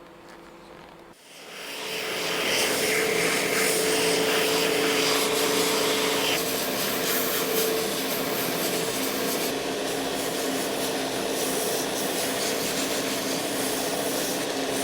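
Electric sanding machine starting up about a second in and running steadily with a rasping hiss, grinding down the edge of a newly glued rubber boot sole.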